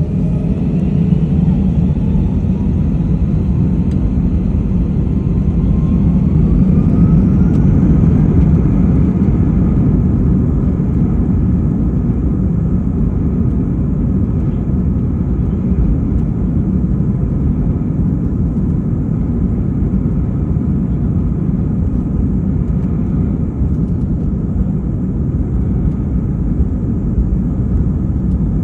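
Airbus A320 jet engines at takeoff power during the takeoff roll: a heavy, steady rumble, with a whine rising in pitch over the first several seconds as the engines spool up.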